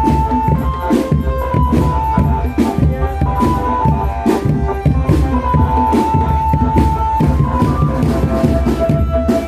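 Indonesian drumband playing: drums beat a fast, busy rhythm under a melody of held notes.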